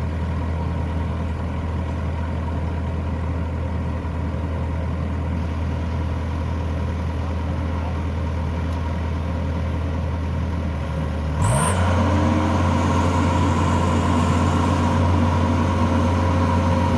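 WD 102 Pro rice combine harvester's diesel engine running steadily, then about eleven seconds in it revs up sharply, gets louder and holds at a higher speed.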